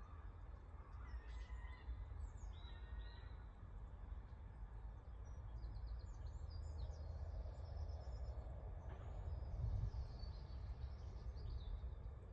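Faint songbirds calling and singing in short scattered phrases, some higher trills about halfway through and again near the end, over a steady low background rumble.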